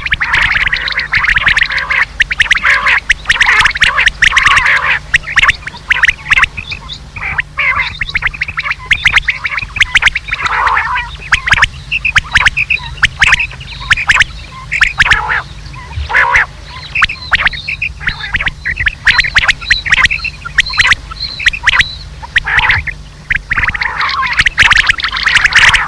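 Recorded quail (batair) calls played back as a hunting lure: a dense run of rapid, sharp chirping calls, with a steady low hum underneath.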